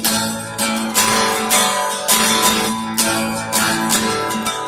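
Acoustic guitar strummed in a steady rhythm, about two strokes a second, chords ringing between strokes.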